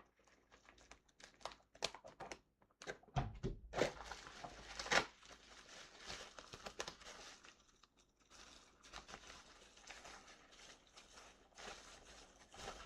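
Packaging crinkling and rustling as toys are unwrapped and handled, with scattered clicks and a few dull knocks, the loudest a little after three seconds in and around four to five seconds in.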